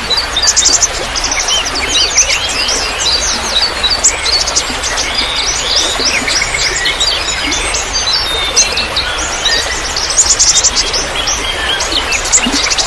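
Many small birds chirping and twittering at once in dense, overlapping trills, over a steady trickle of water.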